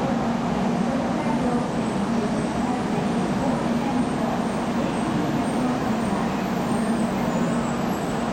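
Steady hum and rolling noise of JR Central Shinkansen trains at a platform: an N700A coasting slowly into the station beside a stationary N700, at an even level throughout.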